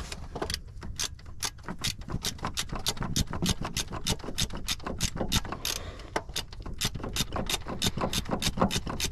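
Ratchet wrench clicking steadily, about four or five clicks a second, as a starter mounting bolt is backed out. The bolt is coming out hard because its threaded hole is full of paint.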